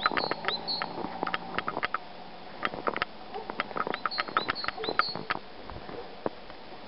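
Small birds giving short, high chirping calls in little clusters, over irregular crisp crunching clicks of footsteps on snow.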